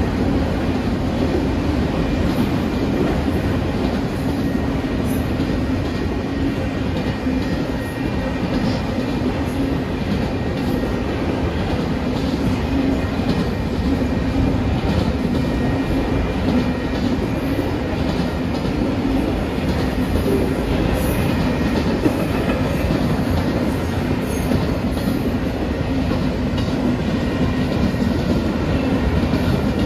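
Freight train of autorack cars rolling past a grade crossing: a steady loud rumble with the clatter of wheels over rail joints.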